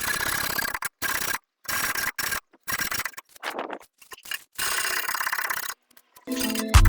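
A hand tool rasping on the steel exhaust pipe in short bursts with abrupt breaks, a dry scraping like sawing or filing metal. Music with a heavy beat comes in near the end.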